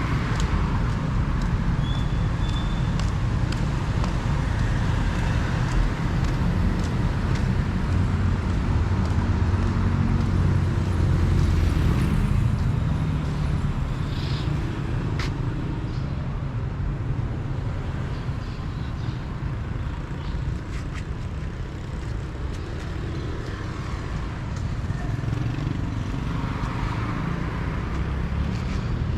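City street traffic: a steady low rumble of passing cars and motorbikes, swelling a little around the middle, with a few faint clicks and a brief high chirp about two seconds in.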